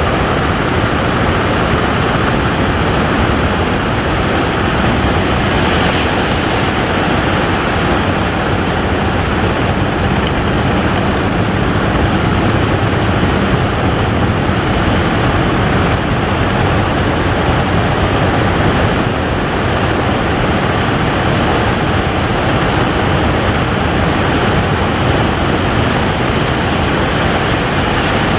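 Heavy surf: breaking waves heard as a loud, steady, even noise.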